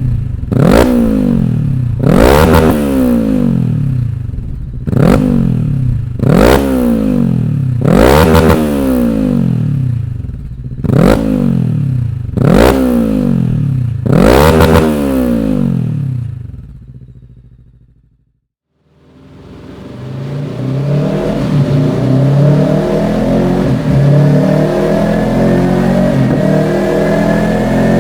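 Rieju Aventura 500 motorcycle engine through a Dominator aftermarket exhaust, revved in about eight quick blips, each rising sharply and falling back. The sound dies away, and after a short gap the engine runs again with its pitch slowly climbing.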